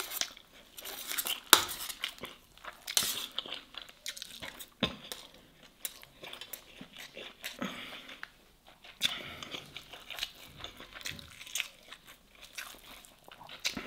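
Close-up chewing and mouth noises of someone eating grilled masgouf fish and rice, a run of short, irregular sounds.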